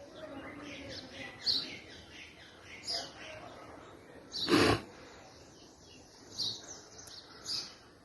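Birds chirping in short calls over steady background noise, with one louder, harsh sound lasting under half a second about halfway through.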